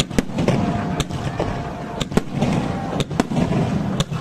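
Fireworks shells bursting in a display: sharp bangs roughly once a second, often in quick pairs, over a continuous rumble of overlapping bursts.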